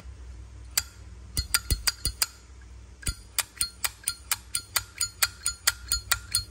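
Sharp metallic clicks from a Zippo lighter being handled: a few scattered clicks at first, then a steady run of about four clicks a second from about halfway through.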